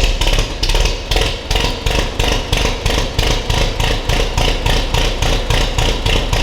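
Ferguson TEA20 tractor's four-cylinder petrol engine running steadily with an even, rhythmic beat, just after it first fires up on a new ignition switch.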